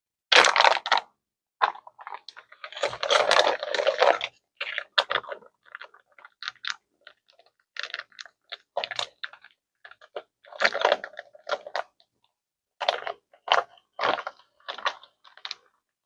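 Irregular crinkling and crunching in short bursts as the plastic packet of pre-made pasta sauce is handled.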